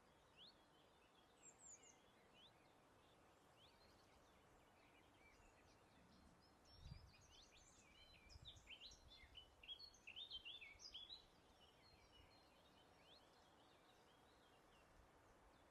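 Faint wild birdsong over a steady low hiss: scattered short chirps, then a busier run of quick chirping and trills in the middle, with a brief low rumble just before it.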